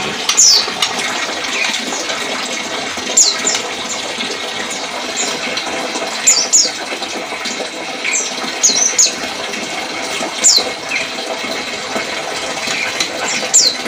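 Small birds chirping: short, high, falling notes in twos and threes every second or two, over a steady rushing hiss.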